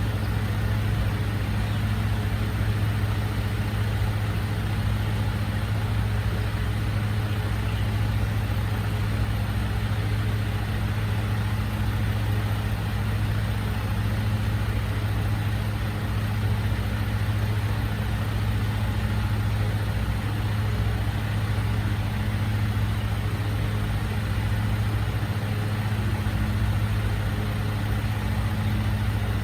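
Recycling truck's diesel engine idling steadily, a constant low hum.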